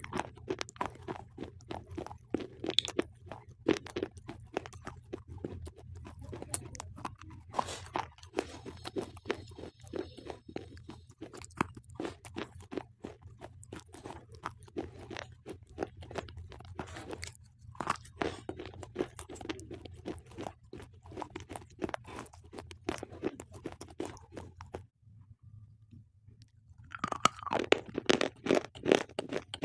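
Slate pencils being bitten and chewed close to the microphone: dense, rapid crunching. It stops briefly a little before the end, then comes back louder.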